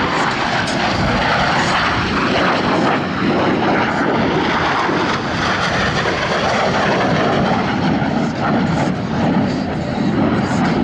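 Loud, steady jet roar of a Blue Angels F/A-18 Super Hornet's turbofan engines as the jet flies its display pass.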